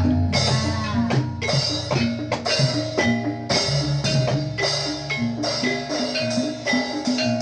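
Jathilan accompaniment music: drum and struck pitched percussion playing a steady, dense rhythm, with a held melodic line over it.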